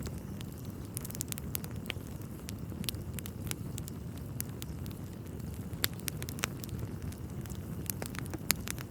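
Wood fire burning in a fireplace: a steady low rumble of flames with frequent irregular crackles and a few louder pops from the burning logs.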